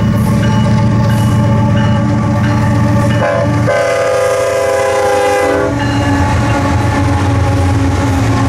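Freight train hauled by Ferromex diesel locomotives passing close by, the engines running with a steady heavy drone. A little over three seconds in, the lead locomotive sounds one long multi-note horn blast of about two and a half seconds.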